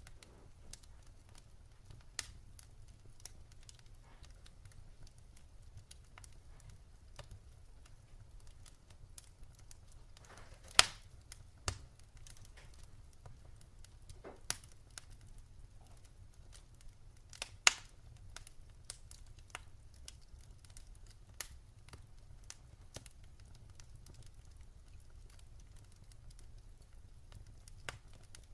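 Firewood burning in a fireplace, crackling with scattered sharp pops over a low steady background, and two louder snaps, about eleven and eighteen seconds in.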